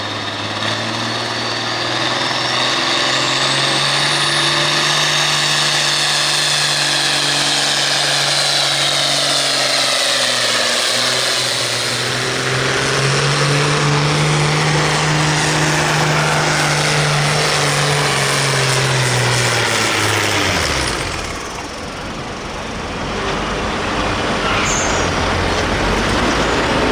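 Turbocharged farm tractor diesel running wide open under load on a pull, with a high turbo whistle over the engine note. The pitch sags and climbs back partway through, then drops away about twenty seconds in as the throttle comes off, leaving a lower rumble.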